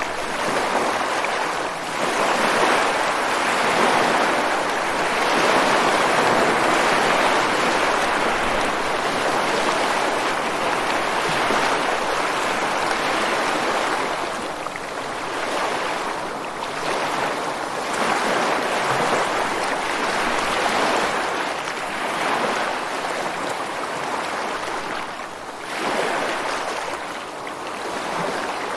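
Ocean surf breaking on a beach and washing against rocks: a continuous rushing hiss that swells and eases with the waves, loudest in the first third.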